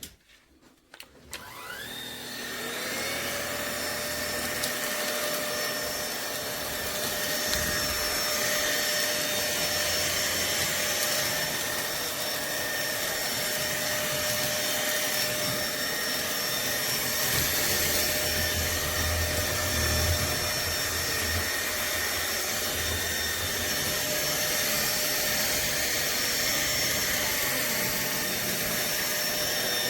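Fieety cordless stick vacuum switched on about a second in: its motor winds up in a rising whine, then runs steadily with a high whine and a rush of air.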